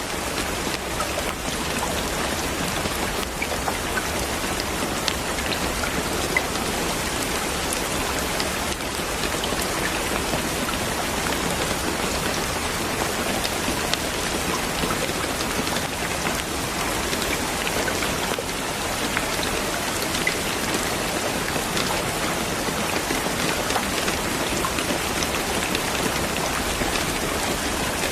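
Steady rain falling and pattering on a surface, a dense even hiss with scattered individual drop ticks.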